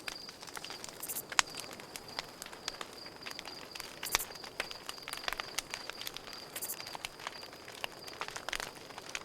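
Campfire crackling, with scattered sharp pops, over a cricket's steady pulsing chirp. Short high buzzes recur about every two and a half seconds.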